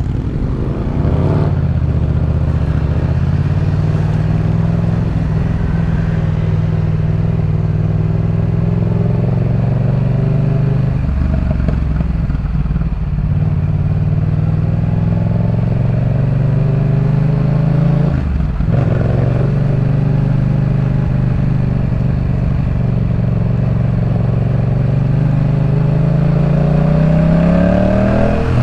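2018 Yamaha MT-07's parallel-twin engine through a Jeskap K4 full exhaust, ridden under way: its pitch climbs and falls as it pulls through the revs, with sharp breaks at gear changes about a second in, near the middle, about two-thirds through and at the very end.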